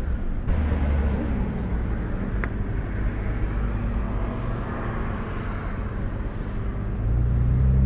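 Vehicle engine idling with traffic noise; a louder, steady engine hum comes in about seven seconds in.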